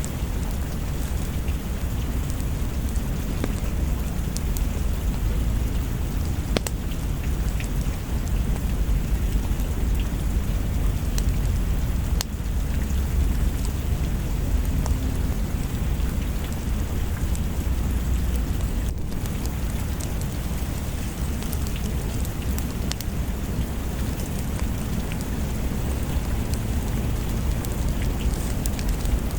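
Steady heavy rain with a constant deep low rumble underneath and scattered sharp ticks.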